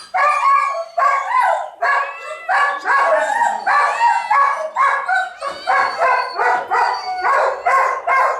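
Dogs barking and yelping over and over in short, high calls, about two a second, getting faster and more regular near the end.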